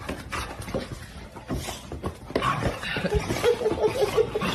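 A pet animal making a quick run of short, repeated calls about a second before the end.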